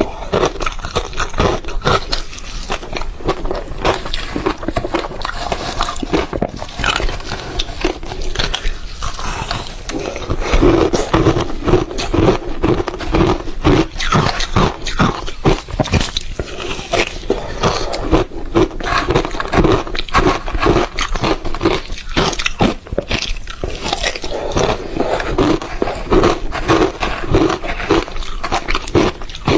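Ice being bitten and chewed close to the microphone: a dense, irregular run of crunches and cracks that goes on without a break.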